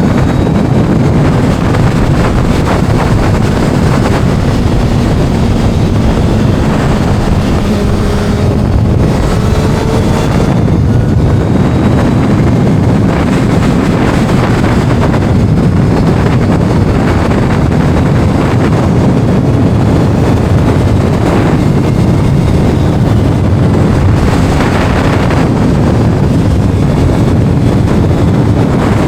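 Kawasaki inline-four sport motorcycle engine running at speed, heavily buffeted by wind noise on the microphone. A faint engine note shifts in pitch about a third of the way in.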